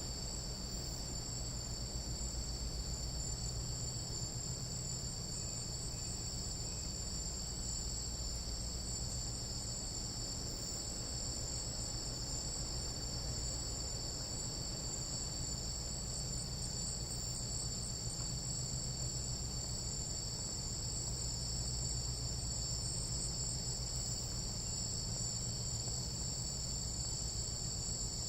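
Night insects of a tropical jungle calling in a dense, continuous chorus: several steady high-pitched trills layered together, with no break.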